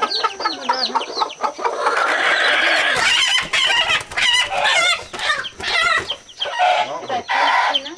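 Chickens clucking and cheeping, many short high calls overlapping continuously.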